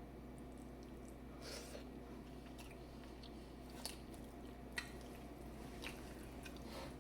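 Faint chewing and wet mouth sounds from someone eating a seafood boil, with a few short sharp clicks and smacks, over a steady low hum.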